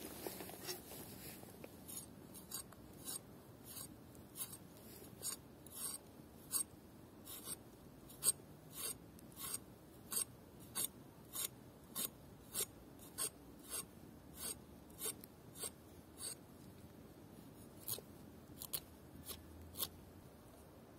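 Faint, regular scraping strokes, about one and a half a second, like something being rasped or scraped by hand.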